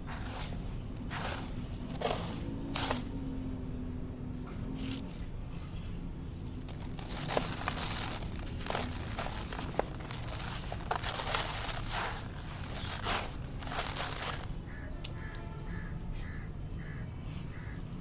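Dry, dusty black concrete crumbling and crunching: a string of irregular gritty crunches and crackles, some louder than others.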